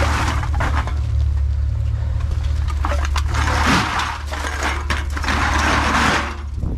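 Three bursts of rattling and clattering, each a second or so long, over a steady low engine hum.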